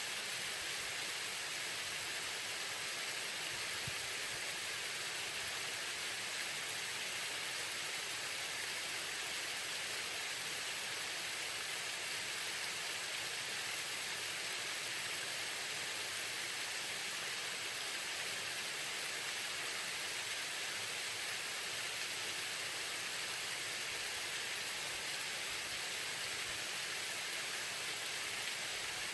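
Waterfall with water falling and splashing in a steady, even hiss.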